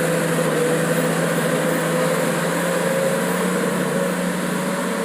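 Small electric motor running steadily as a children's battery-powered ride-on toy truck drives forward: a constant hum with a whine over it.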